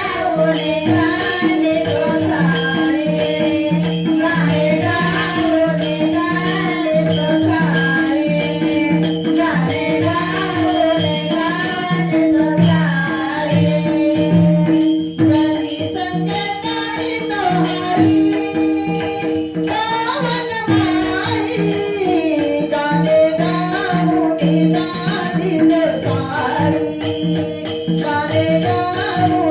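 Marathi devotional bhajan (gaulan) sung by a lead voice over a steady sustained drone, with jingling hand percussion ticking a regular beat.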